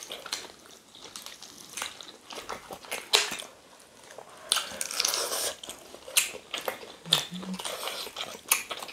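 Close-up eating sounds of people chewing and biting boiled chicken off the bone, with irregular wet clicks and short noisy smears from mouths and fingers tearing the meat.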